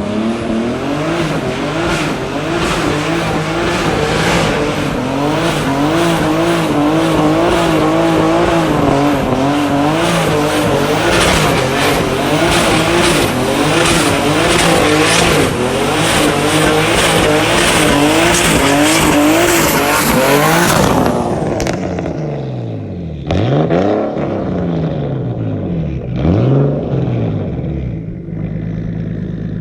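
Turbocharged BMW E46 doing a burnout: the engine is held at high revs with the rear tyres spinning and squealing for about twenty seconds. The revs then drop away suddenly, the engine is blipped twice, and it settles to idle.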